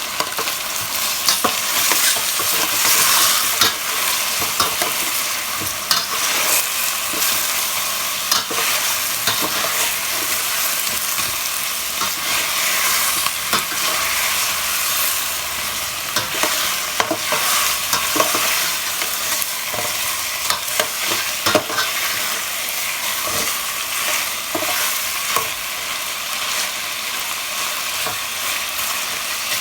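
Chicken pieces sizzling as they brown in hot oil in a pan. A spatula scrapes and knocks against the pan every now and then.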